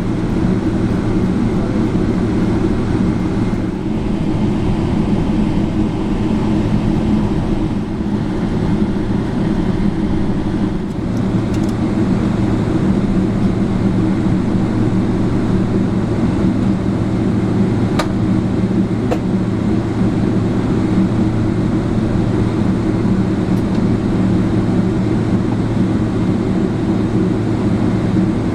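Steady low rumble inside the cabin of a Boeing 777-300ER airliner: engine and airflow noise that holds level throughout, with two faint clicks about two-thirds of the way through.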